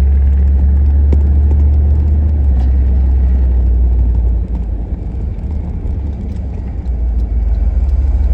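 1990 GMC 1500 pickup under way: a loud, steady low rumble of engine and road noise, which eases for about three seconds in the middle and then comes back up.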